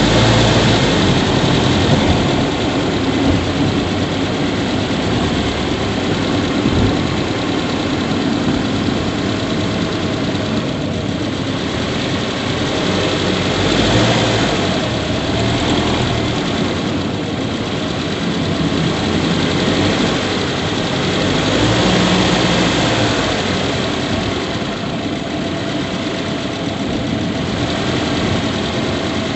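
Subaru Levorg 1.6GT-S's 1.6-litre turbocharged flat-four engine idling steadily, heard in the engine bay where the owner suspects an abnormal squeak.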